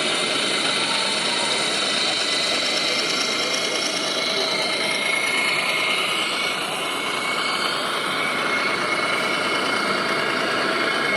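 Radio-controlled model construction machines running: a steady mechanical whir of small motors and gearing, with an engine-like hum.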